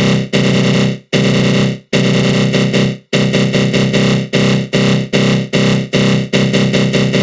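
Synthesized 'attack growl' sound effect: a loud, aggressive buzzing growl from a synthesizer run through a flanger. It cuts off and restarts in notes about a second long, then from about four seconds in is chopped into quick pulses, about two or three a second.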